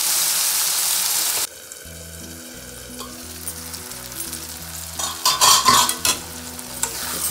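Onions frying and sizzling in an iron kadai while a steel spatula stirs them. About one and a half seconds in the sizzle cuts off suddenly. About five seconds in there is a short burst of loud metal clatter as the steel lid is handled over the pan, and the sizzle returns near the end.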